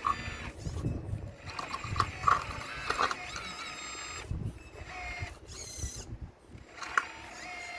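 Remote-control model Caterpillar excavator working: its small electric drive whines, rising and falling in pitch as the arm and tracks move. Stones knock and grind against each other a few times as it breaks into an old stone wall.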